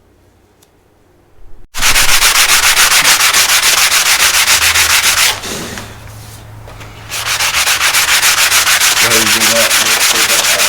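Power sander sanding down body filler on the car's front panel, running loud in two passes with a short pause between them.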